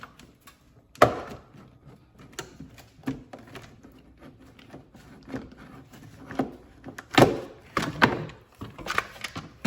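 Knocks and clunks of a car's air filter housing being lifted open and handled: about a dozen irregular hits, the loudest about a second in and another cluster around seven to eight seconds in.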